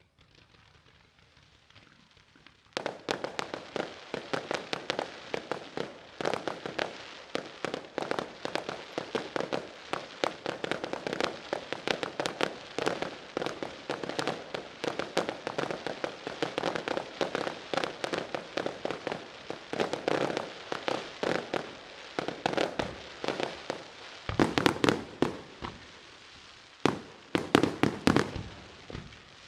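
Aerial fireworks going off in a dense, rapid barrage of bangs and crackles that starts about three seconds in. Near the end come a few louder clusters of booms.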